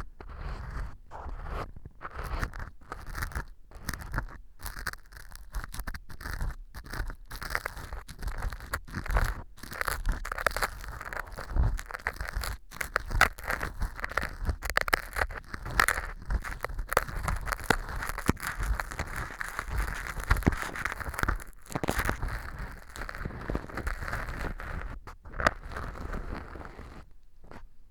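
Ear-cleaning tool scraping and crunching at fake earwax made of dried wheat gluten (fu) glued inside an ear model, a dense run of irregular crackles and scratchy scrapes. The fu is stuck on hard with glue, so much of it is gritty scraping at hardened pieces.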